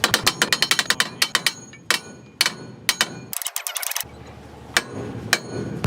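Hammer striking a steel trailer hitch: a fast run of light metallic taps, about ten a second, then single sharp blows a half-second or so apart.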